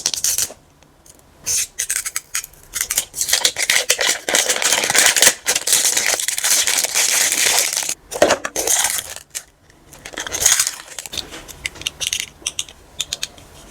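Toy packaging being unwrapped by hand: plastic wrapping crinkling and tearing in irregular bursts, with small clicks and brief pauses.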